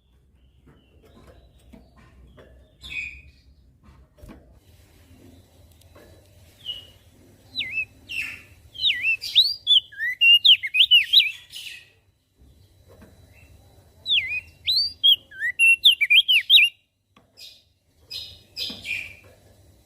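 Crested darkeye (opior jambul) singing: two bursts of quick, sweeping up-and-down notes, one about eight seconds in and another about fourteen seconds in, with softer scattered chirps between. A faint low hum runs underneath.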